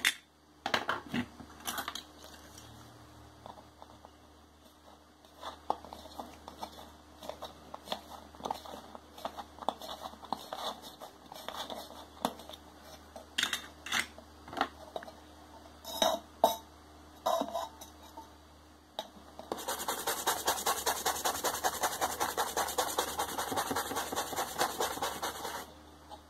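Scattered small clicks and taps on a circuit board, then about 19 seconds in a fast, rhythmic scratching scrub lasting about six seconds: the TV mainboard's solder pads being scrubbed clean with thinner where the IC was removed.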